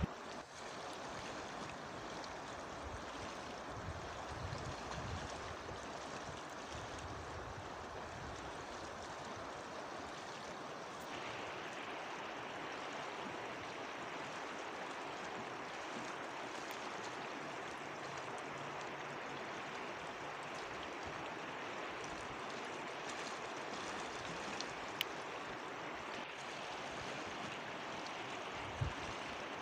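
Steady rushing of a flowing mountain river, with a couple of brief knocks near the end.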